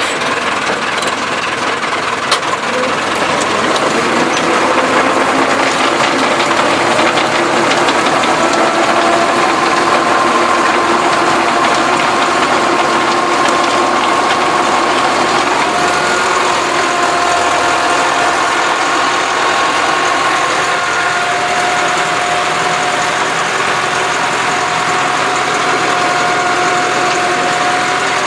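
Massey Ferguson tractor engine running steadily, with a faint whine over it that drifts slowly in pitch. A single sharp click about two seconds in.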